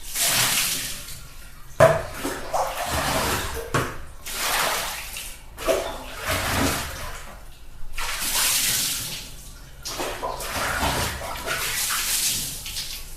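Water splashing and sloshing in uneven surges, one every second or two.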